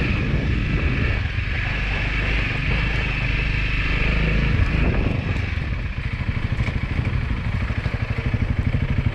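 Dirt bike engine running as it is ridden along a trail; about six seconds in it drops to a slower, evenly pulsing beat as the throttle comes off.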